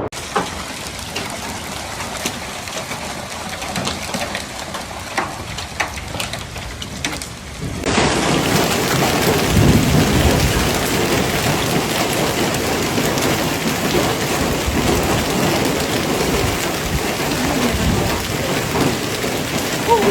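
Thunderstorm downpour: rain falling hard with scattered sharp taps. About eight seconds in it cuts to a louder, denser downpour with low rumbles of thunder.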